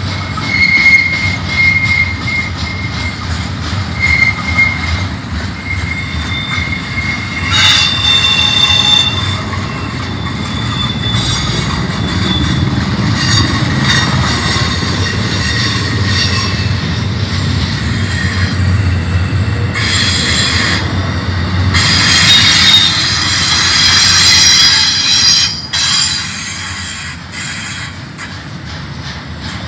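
Double-stack intermodal train's well cars rolling past close by: a steady low rumble of steel wheels on rail, with high squealing from the wheels that comes and goes several times, loudest near the middle and again about two-thirds of the way through.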